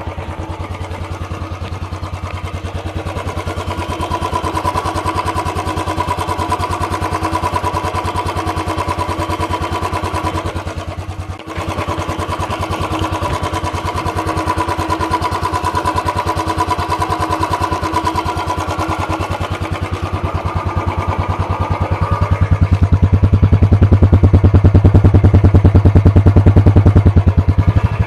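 Royal Enfield 350's single-cylinder engine running through its stock, unmodified silencer, an even run of exhaust pulses. It grows clearly louder and deeper for a few seconds near the end.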